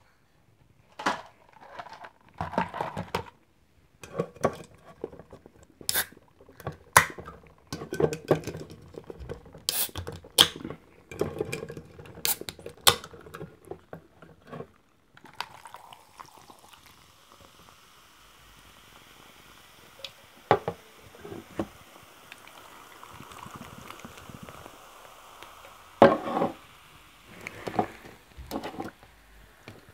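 Sharp clicks and knocks of cola drink containers being handled, then from about halfway a steady fizzing hiss of cola being poured, with a few more knocks near the end.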